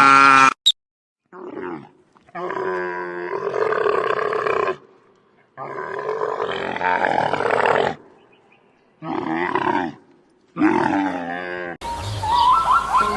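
An animal's long drawn-out calls, five in all, each lasting from under a second to about two and a half seconds, with short silences between them.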